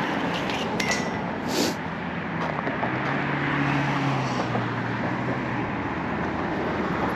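Steady road traffic noise, with a vehicle's low engine hum standing out for a couple of seconds around the middle.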